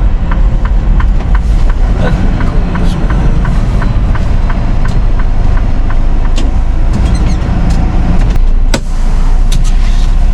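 Semi truck's diesel engine running with a steady low rumble, a rapid even ticking over the first few seconds, and a brief dip in level about nine seconds in.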